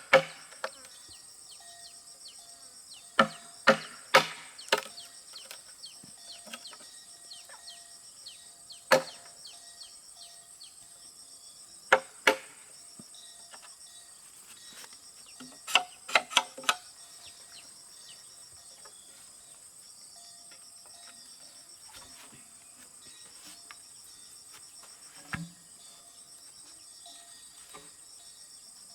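Steady high insect chirring, typical of crickets, with scattered sharp knocks and taps from work on wood, some in quick clusters of three or four.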